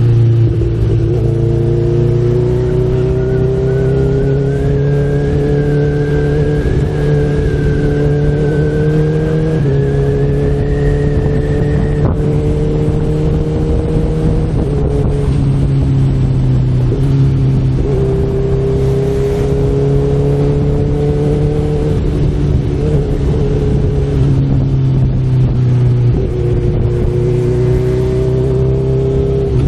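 Honda CB1000R inline-four engine running under load on the road, its note climbing and then stepping abruptly at several quickshifted gear changes.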